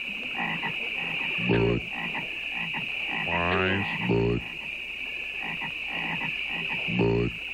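Frogs croaking in the Budweiser frogs commercial, three deep croaks in turn: one about a second and a half in, a longer one sliding in pitch around the middle, and another near the end. Underneath is a steady high-pitched drone of a night-swamp background.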